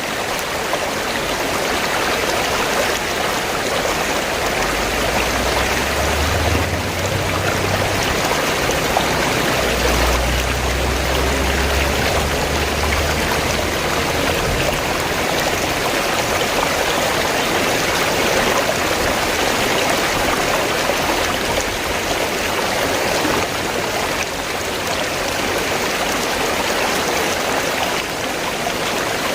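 River water flowing and rushing steadily. A low rumble sits underneath from about five to fourteen seconds in.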